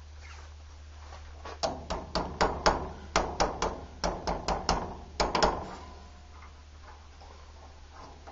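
About fifteen sharp metal knocks in quick succession, three or four a second, for about four seconds: a stuck radiator cap being struck to knock it loose.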